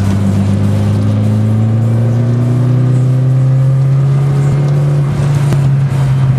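Mitsubishi Lancer Evo IX's turbocharged four-cylinder engine heard from inside the car, pulling under load with its pitch rising slowly; the sound dips briefly twice near the end.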